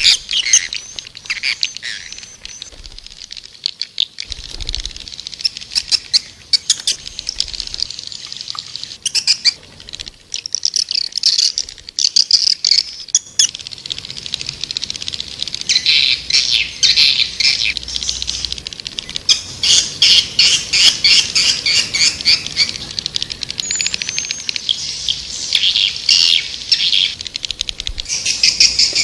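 Swiftlets twittering: dense trains of rapid, high chirps, busier and more continuous in the second half. This is the kind of swiftlet call sound played to lure swiftlets into nesting houses.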